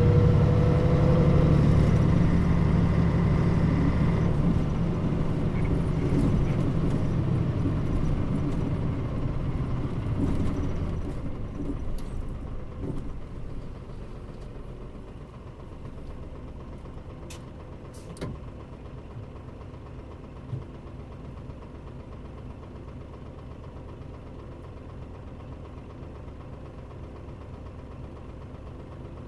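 Mitsubishi Fuso Aero Star city bus heard from inside the cabin: the diesel engine pulls under load with a rising whine, then over a few seconds the sound falls away as the bus slows and the engine settles to a low, steady idle. A couple of sharp clicks come about two-thirds of the way through.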